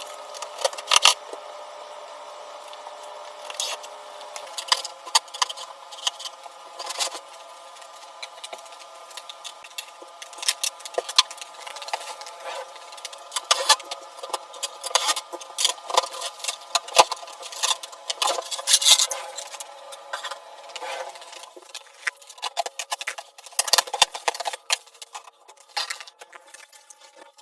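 Irregular light clicks, taps and knocks of tools and hardware being handled while an over-the-range microwave is installed, over a steady droning hum.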